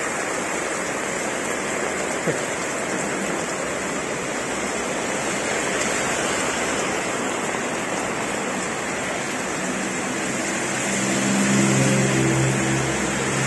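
Heavy rain falling steadily on the road and roofs, a dense hiss. Near the end a car drives past on the wet road, its engine hum swelling and fading.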